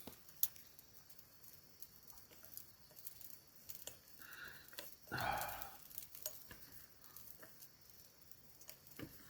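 Faint, scattered clicks and light taps of tableware being handled during a meal, the sharpest about half a second in, with a short soft rustle about five seconds in.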